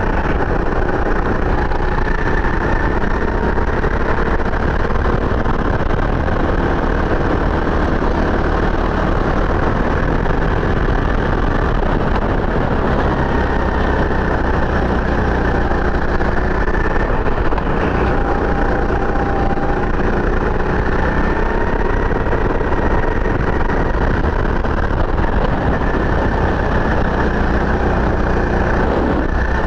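A CRG Centurion 270 rental kart's single-cylinder four-stroke engine, heard onboard at speed on a hot lap. The engine note keeps rising and falling as the driver comes off and back onto the throttle through the corners.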